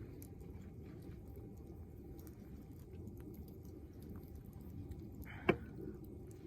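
Campfire with faint scattered crackles over a steady low rumble, and one sharp pop about five and a half seconds in.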